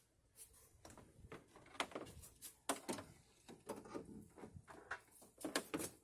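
Metal hand tools and hose clamps being handled: a string of irregular sharp clicks and clinks.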